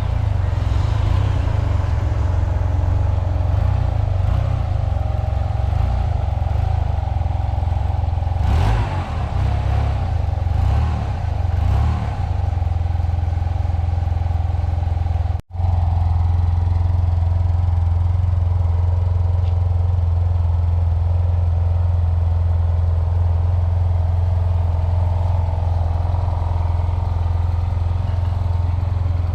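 2022 Yamaha TMAX 560's parallel-twin engine running at a steady idle. The sound is briefly unsettled about a third of the way in, and drops out for an instant about halfway.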